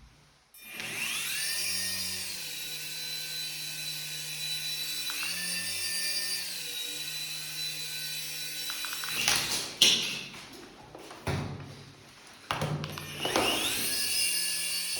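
Small electric motor of a toy remote-control helicopter spinning up with a rising whine and running steadily. Its pitch rises briefly about five seconds in and then settles. It cuts out about nine seconds in, a few rough knocks and rustles follow, and near the end it spins up again.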